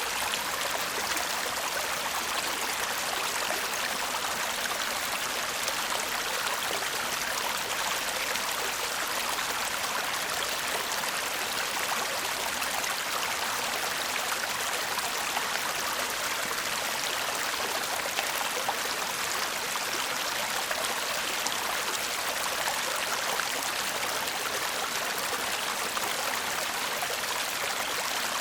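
Shallow stream babbling and trickling over stones in a steady, even rush of water with no change.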